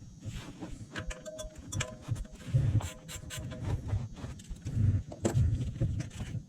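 Metal tools and parts clinking and knocking irregularly, some strikes leaving a short metallic ring, mixed with dull low thuds.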